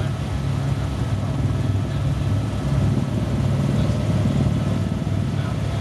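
Helicopter running steadily: a constant low engine and rotor drone with a fast, even pulse from the blades.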